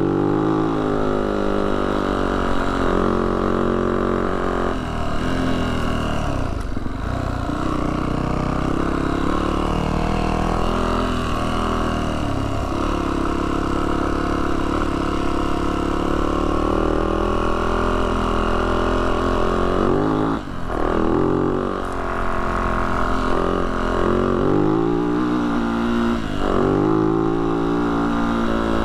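Yamaha YZ450F dirt bike's four-stroke single-cylinder engine pulling up a steep climb, its revs rising and falling with the throttle and briefly dropping a couple of times as the throttle is rolled off.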